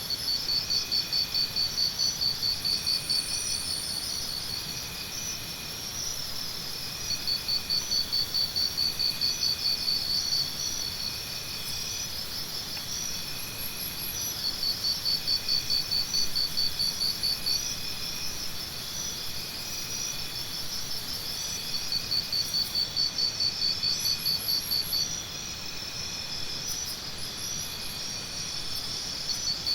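Jungle morning ambience of insects. Bouts of a loud, pulsing insect call, about four pulses a second, last around three seconds and return every seven seconds or so. Under them runs a steady bed of other insects trilling.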